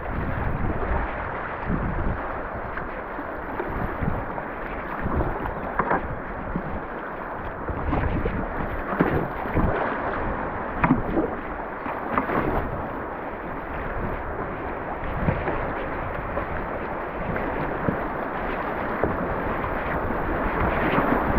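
Fast river current rushing steadily around kayaks, with irregular short splashes of water and wind buffeting the microphone.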